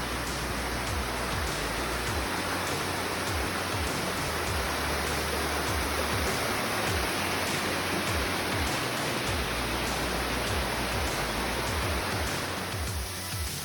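Waterfall: a steady rush of falling water, thinning slightly near the end.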